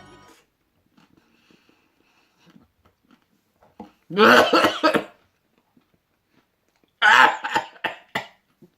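A man gagging and coughing as he nearly throws up on a bite of durian pizza. There is one long retch about four seconds in, then a second fit of short, jerky coughs near the end.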